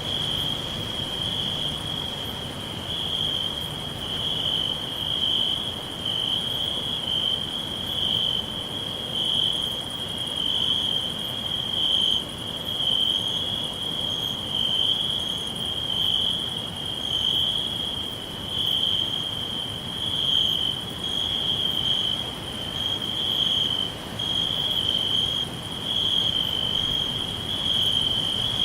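Crickets chirping in a continuous high trill, the chorus swelling and fading in waves every second or two over a faint low hiss.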